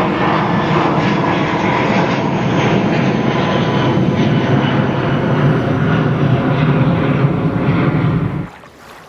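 Passenger plane passing over, a loud steady engine roar that cuts off abruptly about eight and a half seconds in.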